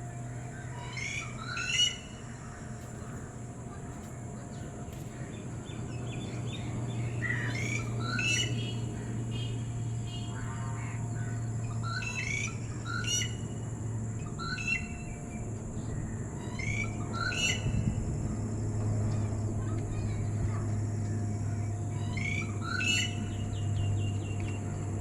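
Red-whiskered bulbul calling: short phrases of quick chirpy notes repeated about every five seconds, over a steady low hum.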